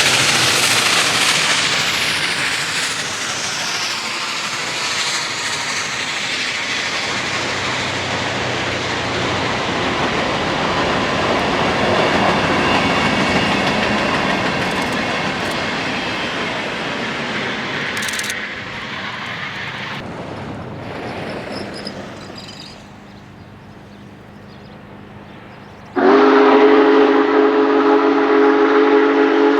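Union Pacific Big Boy 4014 steam locomotive and its train passing close by, a loud rushing rail noise that gradually fades away. Near the end, a loud multi-tone chime steam whistle blows one steady blast of about three and a half seconds, then cuts off abruptly.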